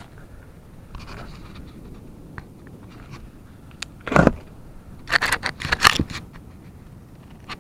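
Handling noises with no engine running: a single thud about four seconds in, then about a second of scraping and rattling, over a low rumble of wind on the microphone.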